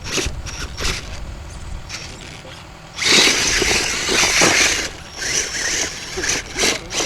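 Radio-controlled offroad race car running, with a loud burst of wheels churning for about two seconds midway, over a steady low rumble of wind on the microphone.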